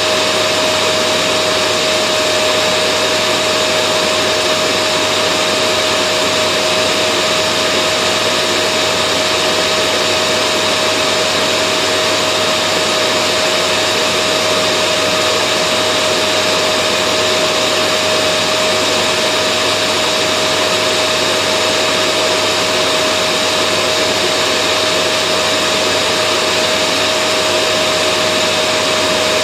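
Vacuum cleaner motor running steadily, a constant rushing hum with a steady whine, used as white noise to soothe babies to sleep.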